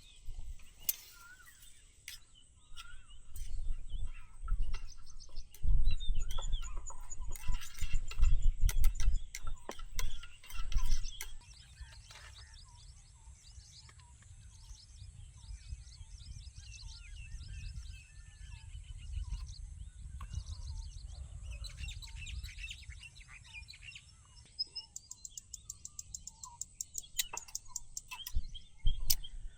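Wild birds chirping and calling, many short calls overlapping, with a fast run of ticking calls near the end over a steady high-pitched hum. Loud low rumbles and thumps come in the first half.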